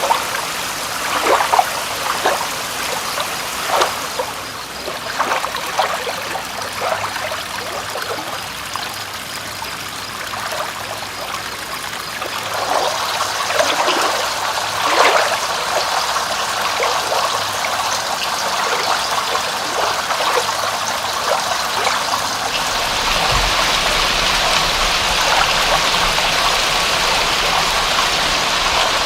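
Water trickling and splashing, with scattered drop-like splashes. A little over three-quarters of the way in it gives way to a denser, steady rain hiss that is slightly louder.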